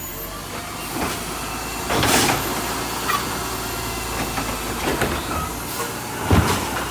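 Motor vehicle running with a steady low hum, broken by several sharp knocks and clatters, the loudest about two seconds in and again near the end.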